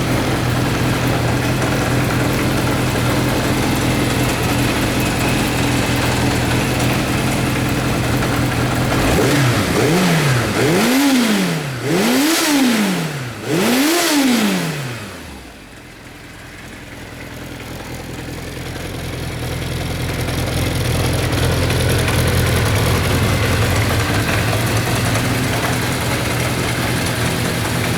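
Kawasaki Zephyr 750's air-cooled inline-four engine idling steadily, then revved three times from about nine seconds in, each rev climbing and falling back quickly. The revs come up cleanly, showing an engine in good running order. It turns quieter for a moment after the last rev, then settles back to a steady idle.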